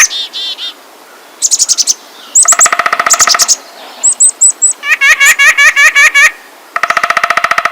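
Songbirds singing: a string of loud, rapid trilled phrases and chirps, each lasting up to about a second and a half with short gaps between, and four quick separate chirps about halfway through.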